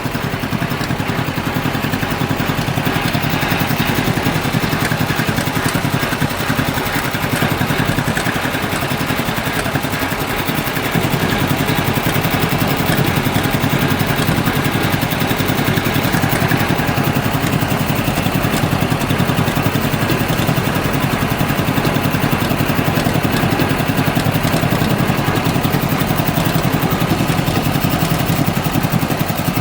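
Tractor engine running steadily while the tractor is driven along at low speed, getting a little louder about eleven seconds in.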